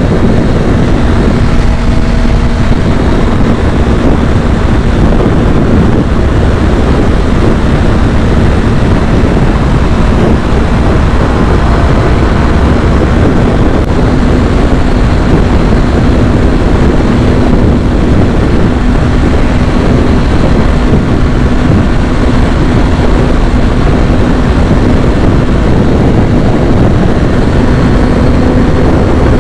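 Kawasaki ZX-6R inline-four motorcycle engine running steadily on the move. Its tone holds nearly level and rises slightly near the end, under a constant rush of wind noise.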